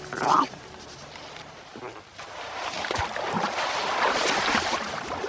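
A short harp seal call at the start, then a swelling wash of water sloshing and lapping that runs for the last three seconds.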